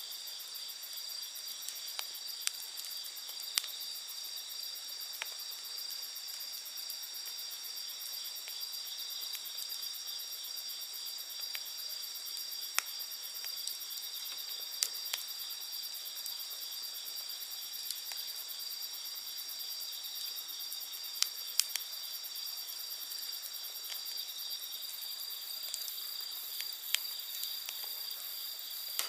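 A steady high-pitched chorus of night insects, crickets among them, with a wood campfire crackling in scattered sharp pops now and then.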